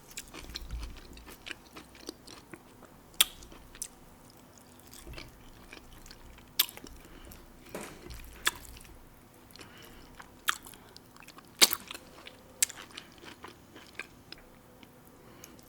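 A person chewing and biting food close to the microphone, with irregular sharp crunches and mouth clicks.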